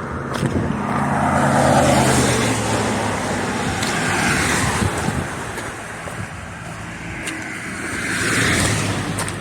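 Cars driving past on a road, a few in turn, each swelling and fading away.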